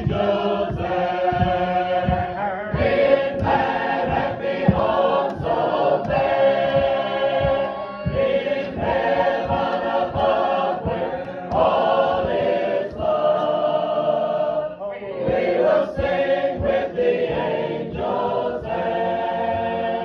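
A group of voices singing a hymn together in parts, in held chords phrase after phrase with short breaks between them.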